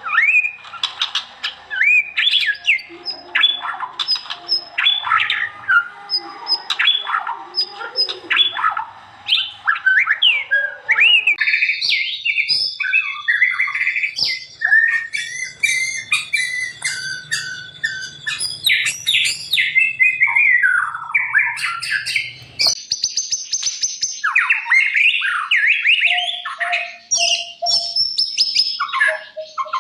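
White-rumped shama (murai batu) singing a fast, varied song of loud whistles, slurred notes and rapid chattering phrases. The sound changes abruptly twice, at about a third and two-thirds of the way through, as one recording gives way to the next.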